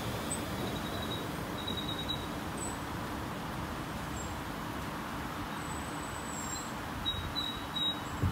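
South Western Railway electric multiple unit rolling slowly through the station: a steady low rumble of wheels and running gear, with a faint high whine that comes and goes.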